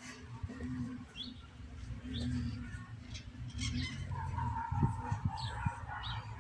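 Birds chirping in short, rising high notes, repeated about once a second, over a steady low rumble; a steady mid-pitched tone joins about four seconds in.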